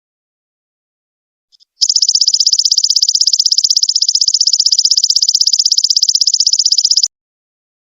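Belalang emas ('golden locust') insect calling: after a brief chirp, a high, rapidly pulsing trill starts about two seconds in, runs evenly for about five seconds and cuts off suddenly.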